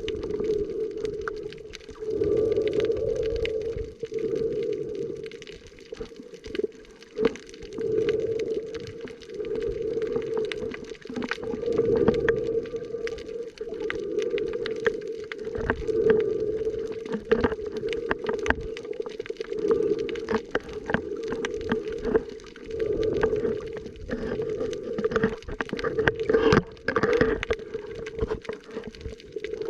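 Muffled underwater sound picked up by a camera in a waterproof housing during snorkelling. It is a steady low hum that swells and fades every couple of seconds, with scattered clicks and knocks.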